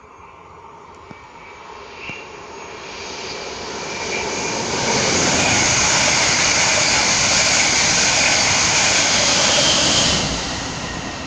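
Regional passenger train of red double-deck coaches passing close by on the track below: its rumble grows over the first few seconds, stays loud for about five seconds while the train goes past, then falls away near the end.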